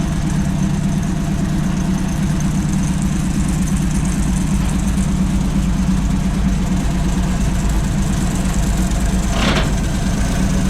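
Engine idling steadily, most likely the tow truck's, with a short rushing burst about nine and a half seconds in.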